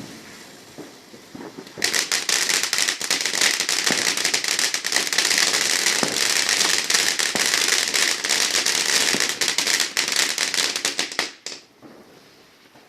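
Crackling firework: a few faint pops, then about two seconds in a dense, loud crackle of rapid sharp pops that runs for about nine seconds and cuts off abruptly.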